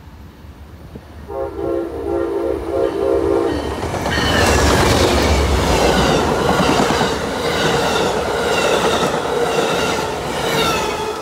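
Amtrak passenger train sounding its horn for about two seconds as it comes into the station. It then rushes past close by, with loud rhythmic clatter from the stainless-steel coaches' wheels on the rails.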